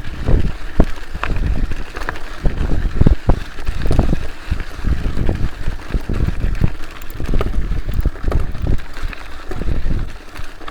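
Wind buffeting the microphone in irregular gusts, with scattered sharp clicks and knocks.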